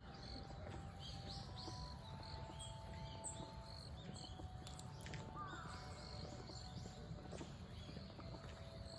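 Wild birds giving many short, high chirping calls throughout, over a steady low background rumble.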